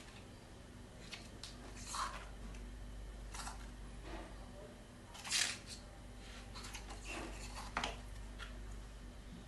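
Scattered brief paper rustles and handling sounds, as picture-book pages are handled and turned, the loudest about five seconds in, over a faint steady electrical hum.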